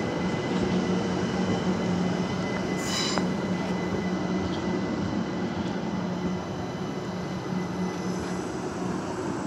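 Southern electric multiple unit running alongside the platform: a steady electric hum over rolling wheel noise, with a brief high wheel squeal about three seconds in.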